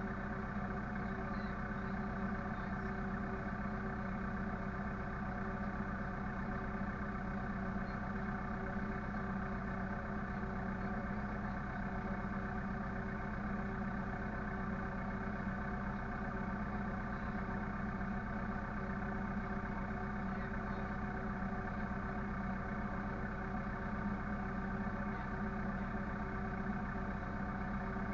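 Engine running steadily at one constant speed, a continuous even drone.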